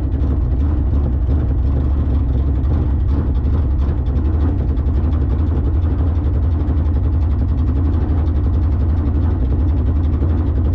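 A race car's engine idling steadily and loudly, with a deep, even low end and no revving.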